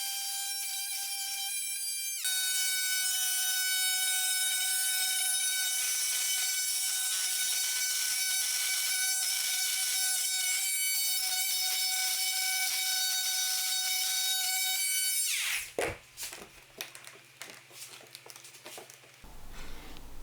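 A power tool running with a steady high whine that shifts in pitch about two seconds in, then switched off about fifteen seconds in and winding down. A few light knocks and clicks follow.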